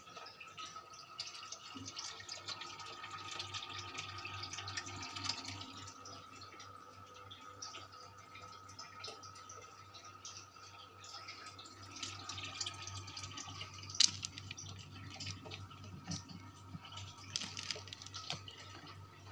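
Industrial 56-inch ceiling fan running: a steady whine with a low motor hum that comes in about two seconds in, and scattered light ticks. One sharp click sounds about 14 seconds in.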